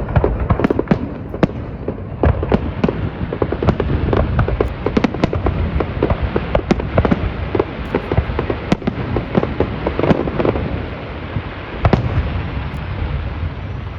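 Fireworks display: a dense, continuous barrage of bangs and crackling, many shells going off in quick, irregular succession over a steady rumble.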